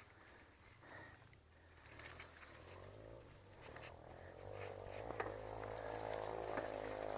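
A motor engine, likely a dirt bike, running steadily and growing louder from about halfway through as it draws nearer, with scattered light clicks and rattles.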